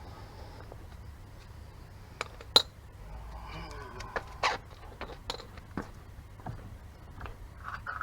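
Scattered metallic clinks and knocks of tools and parts being handled during a brake job, the sharpest about two and a half seconds in, over a low steady hum.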